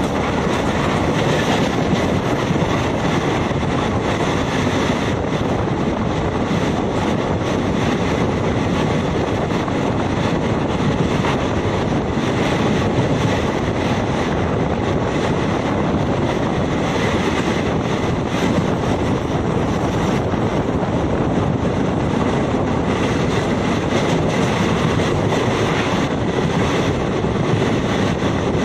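DEMU train running at speed, heard from outside the coach: a steady running noise of wheels on rails mixed with wind rushing over the microphone, unchanging throughout.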